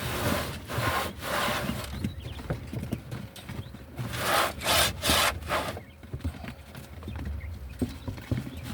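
A kennel being scrubbed clean: a series of rough rubbing strokes, loudest around four to five seconds in.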